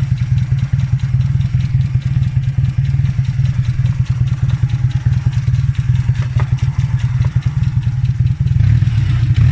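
Audi 80 engine idling steadily with a rapid, even low throb, getting a little louder near the end.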